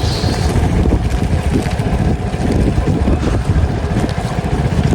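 Strong snowstorm wind buffeting the microphone: a loud, rumbling, gusty roar with no breaks.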